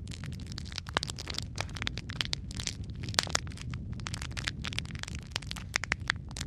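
Wood fire crackling in a fireplace: a steady low rumble of flame with irregular sharp pops and snaps of burning wood, a few louder ones standing out.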